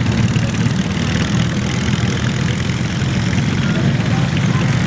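Garden tractor engine running steadily with a fast, even low rumble.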